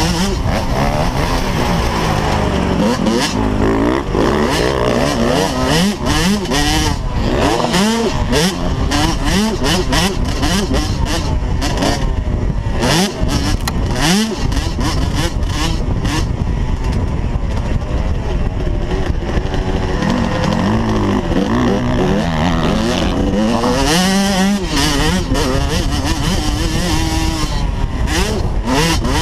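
Small motocross bike engines revving hard, their pitch rising and falling again and again as they ride the track.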